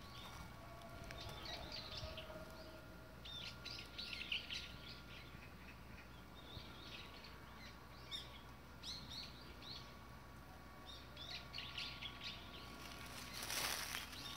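Small birds chirping faintly in short scattered bursts, several times over. Near the end, dry fallen leaves rustle and crunch underfoot.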